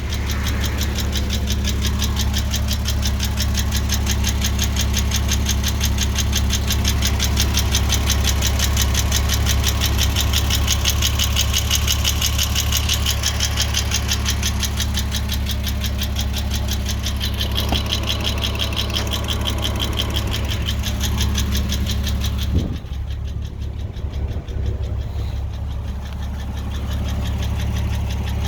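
Porsche 986 Boxster 2.7 flat-six engine idling with a fast, even ticking over its steady hum, a noise it has recently developed. About three-quarters of the way through the ticking suddenly drops away for a few seconds, then comes back fainter.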